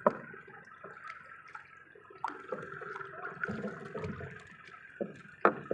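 Water sloshing and splashing close by, with a few sharper splashes: one at the start, one about two seconds in and one near the end.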